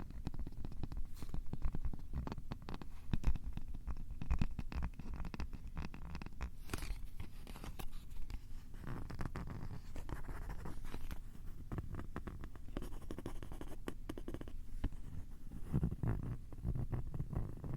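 Fingers scratching, rubbing and tapping directly on a Tascam recorder's microphones: dense, rapid scratchy crackle over heavy low rumbling thumps, harsh and very close.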